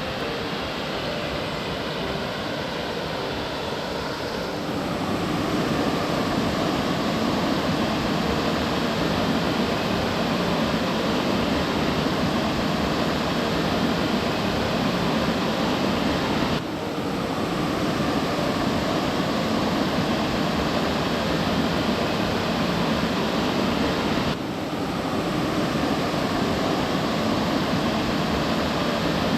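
Steady rush of a waterfall's falling water, growing louder about four seconds in, with two brief breaks where the sound drops and resumes.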